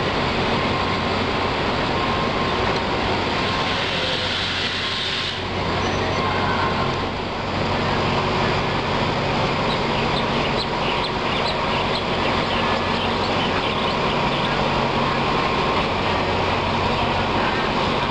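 Passenger train running slowly, heard from an open carriage window: a steady low engine hum over rolling wheel noise, with a slight dip about four to seven seconds in.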